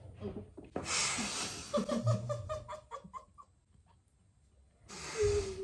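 A young woman bursting out laughing with a mouthful of water: a loud spluttering burst about a second in, then a run of short giggles, and another breathy burst of laughter near the end.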